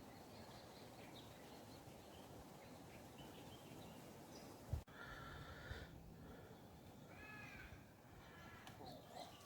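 Faint outdoor ambience, near silence, with a few distant bird calls in the second half and a single soft knock about five seconds in.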